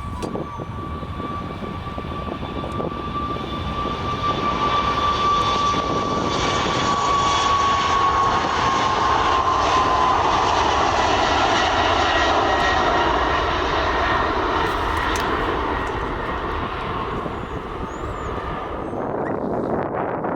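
An airliner's engines passing close by: a steady high whine over a broad engine noise that builds, drops in pitch as the aircraft goes past, then fades away.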